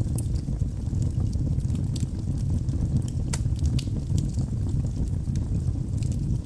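Wood fire burning in a fireplace: a steady low rumble of flames with scattered sharp crackles and pops, one louder pop about three seconds in.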